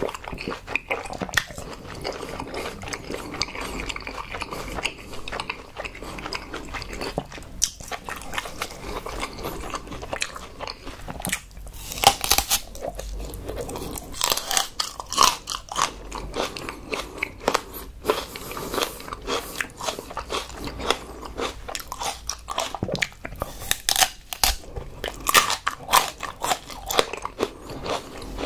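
Close-miked mouth sounds of biting into and chewing a raw aloe vera leaf: a steady run of crisp, wet crunches and crackles, broken by several louder snapping bites.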